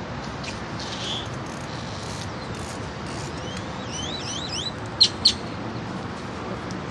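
Small bird chirping: a quick run of rising-and-falling high chirps, then two short, sharp, louder notes about five seconds in, over a steady background noise.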